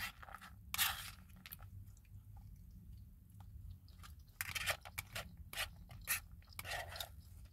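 A person chewing food with her mouth close to the microphone: short, irregular mouth clicks, loudest about a second in and gathered in a cluster from about four and a half to six seconds in.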